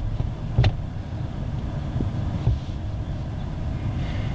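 Steady low rumble of a car, with a sharp knock just under a second in and a fainter one about halfway through.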